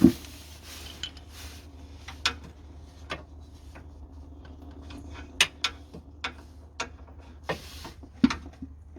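About a dozen sharp, irregular clicks and taps, with a few short rustles: small hard objects being handled and knocked, over a steady low hum.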